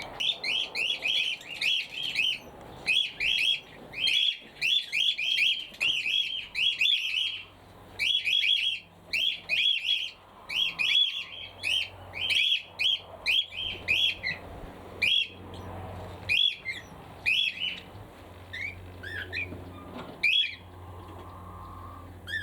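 Small aviary birds chirping: a rapid string of short, high chirps several a second, thinning out to scattered chirps about two-thirds of the way through.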